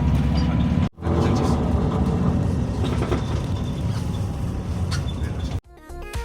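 Steady low rumble of a moving road or rail vehicle, heard from inside, with a brief break about a second in; it cuts off shortly before the end.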